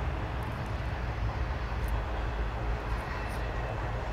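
CN freight train of double-stack container cars rolling past, a steady rumble of wheels on rail with a few faint high ticks.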